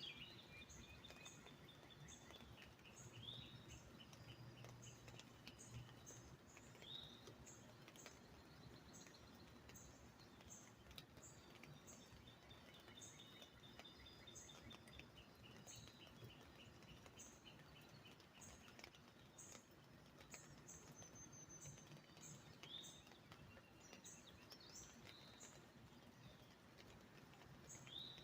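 Faint songbirds calling: short rising whistles and rapid trills, with a short high note repeated over and over, over a soft steady hiss.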